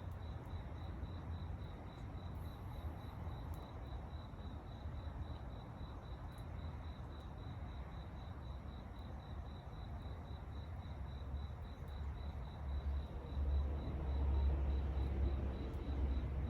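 A cricket chirping in a high, steady, evenly pulsing trill, over a low rumble that grows louder a few seconds before the end.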